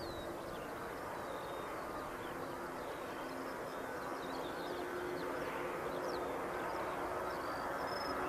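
Distant jet airliner engine noise, a steady rumble with a low hum that slowly grows louder, while small birds chirp in short high calls throughout.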